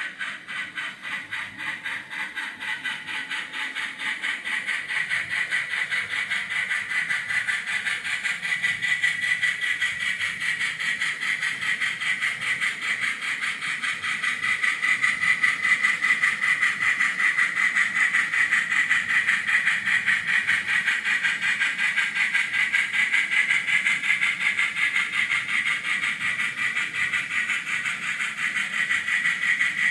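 N gauge model trains running on the track: a steady high motor whine with a fast flutter of wheel noise, growing louder over the first half and then holding.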